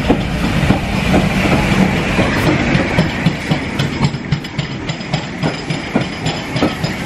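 Steam-hauled passenger train passing close by along the platform: a steady rumble of coaches on the track, with frequent sharp clicks from the wheels running over the rail joints.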